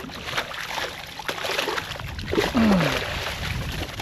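Water splashing and small knocks around a kayak as a hooked speckled trout is brought in, with a short low falling hum about two and a half seconds in.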